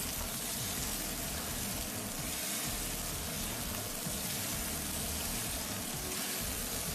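Flat rice noodles, beef and vegetables sizzling in hot oil inside a rotating automatic wok drum: a steady frying hiss, freshly added noodles hitting the hot pan.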